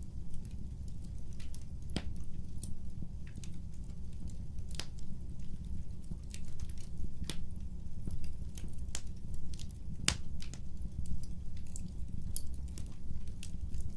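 Wood fire crackling: irregular sharp pops and snaps over a steady low rumble, with the loudest pop about ten seconds in.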